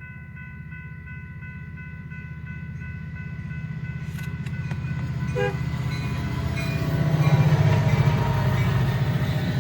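EMD SD70MAC diesel locomotive approaching, its engine rumble growing steadily louder and loudest near the end, with a crossing signal's bell ringing steadily over it.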